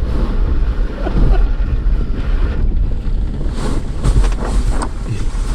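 Jeep driving on a snowy road: a steady low rumble of engine and tyres with wind buffeting the microphone, and a few light knocks.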